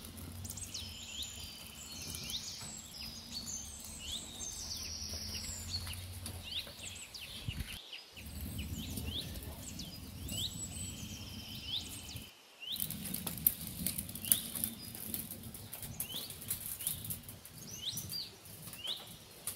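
Small birds chirping over and over in short rising calls, over a steady low rumble. A few sharp clicks come in about two thirds of the way through.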